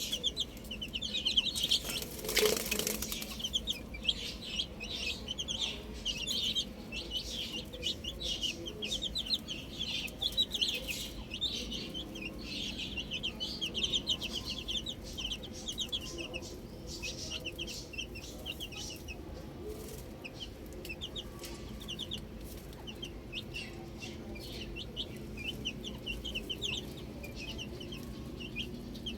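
A group of baby chicks peeping continuously, many rapid short high-pitched chirps overlapping. About two seconds in there is a brief loud rustling burst.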